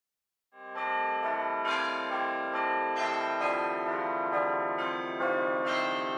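Bells ringing out at the close of a service. Struck notes follow one another and overlap into a sustained, ringing wash, starting suddenly about half a second in.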